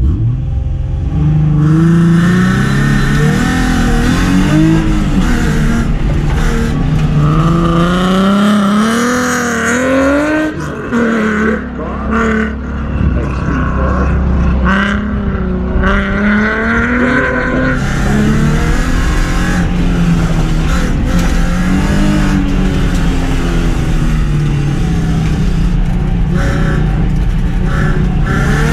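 Car engine revving hard through an autocross run, its pitch climbing and falling over and over with throttle and gear changes, easing off briefly about eleven seconds in.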